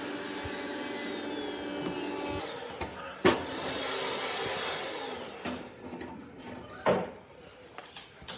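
Wood being worked with a tool, a rough rasping noise that stops about two and a half seconds in, followed by two sharp knocks about three and a half seconds apart.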